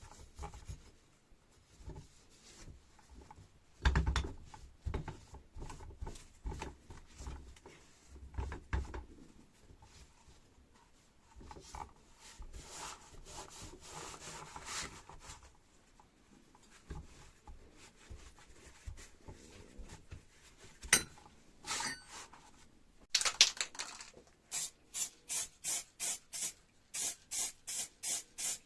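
Hand rubbing and sanding on metal parts, with scattered handling knocks. Near the end comes one longer hiss of spray paint, then a string of short, even spray bursts, about three a second.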